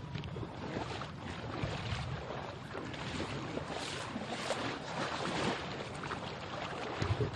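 Irregular splashing of floodwater as a man swims away from his submerged car, with wind buffeting the microphone.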